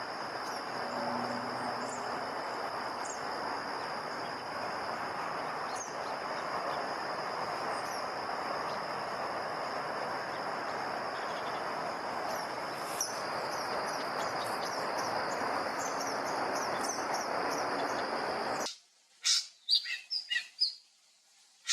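Outdoor bird ambience: small birds chirping over a steady hiss and a constant high tone. About nineteen seconds in the background cuts off suddenly, and a few separate bird chirps follow against quiet.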